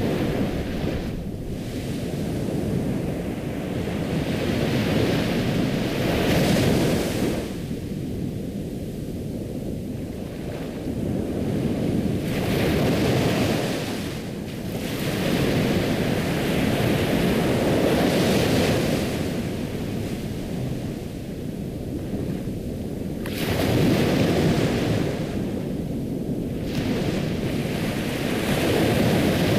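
Ocean surf: waves breaking and washing in, swelling and fading every few seconds over a steady low rumble.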